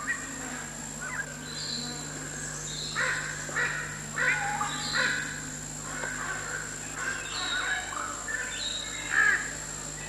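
Wild birds calling: a series of short, harsh, rasping calls, crow-like caws, with a few higher chirps mixed in.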